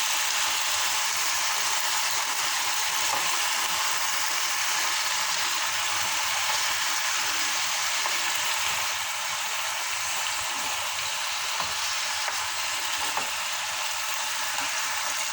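Chopped water hyacinth stir-frying in a hot pan: a steady sizzle with a few light clicks of the utensil against the pan.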